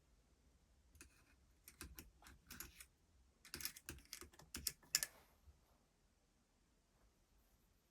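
An irregular run of light clicks and taps, thickest a little past the middle, then stopping.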